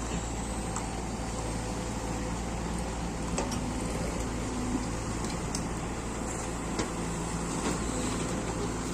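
Heavy diesel engine of earth-moving machinery running steadily at a constant speed, with a few faint knocks and clanks.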